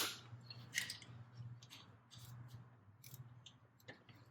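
Scattered light metallic clicks and ticks of a torque wrench and socket tightening the turbocharger's nuts to the cylinder head, a sharp click at the start and lighter ones about once a second after. A faint steady hum sits underneath.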